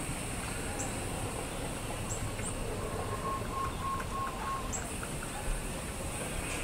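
Faint birds chirping: short high chirps every second or two and a quick run of five notes about midway, over a steady background hiss.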